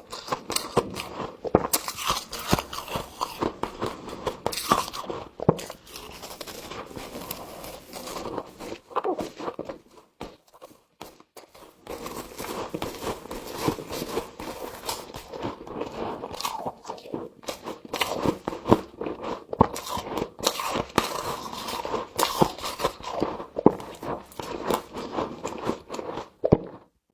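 Close-up crunching and chewing of frost: dense, crackly bites with a short lull about ten seconds in, stopping suddenly just before the end.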